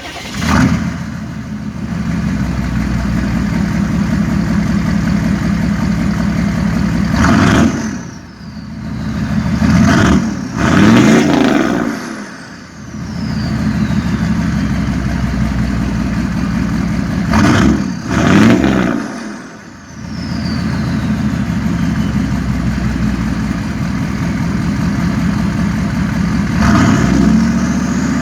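6.5-litre V8 turbo diesel idling through a 4-inch straight-piped axle-dump exhaust, blipped to short free revs about six times, mostly in pairs. After the revs a high turbo whistle falls away as the turbo spools down.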